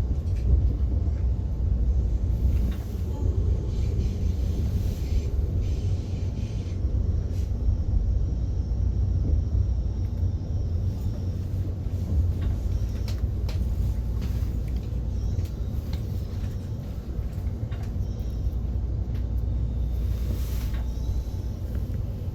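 Steady low rumble of a moving train heard from inside the carriage, with a few faint clicks.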